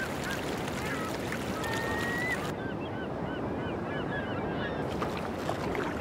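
Birds calling again and again in short, quick notes, with one longer held call about two seconds in, over a steady background hiss.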